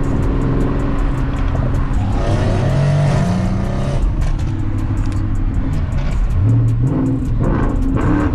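V8 car engine and exhaust accelerating: the pitch rises for about a second and a half starting about two seconds in, then steps up again near the end.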